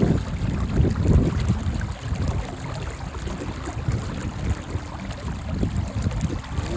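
Wind buffeting the microphone in gusts, a low uneven rumble that is strongest in the first second or so.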